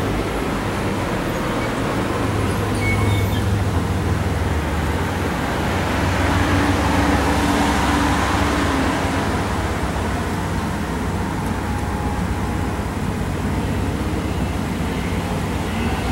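Steady rumble of a motor vehicle running, swelling for a few seconds around the middle.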